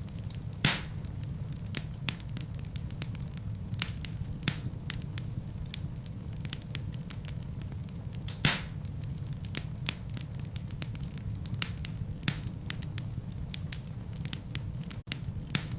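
Wood fire burning in a fireplace: a steady low rumble of flames with irregular crackles and snaps. Two louder pops come about a second in and just past the middle.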